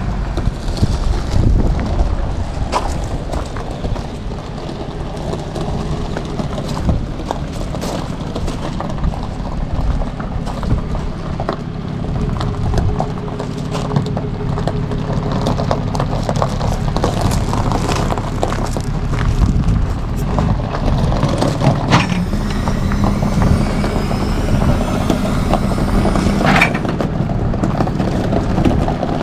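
Tow truck's engine running as it is driven slowly, heard with frequent short knocks over its steady rumble.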